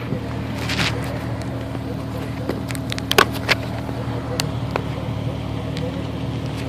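Nissan 370Z Nismo's 3.7-litre V6 idling steadily through an aftermarket intake and cat-back exhaust, with a few sharp clicks over it, the loudest about three seconds in.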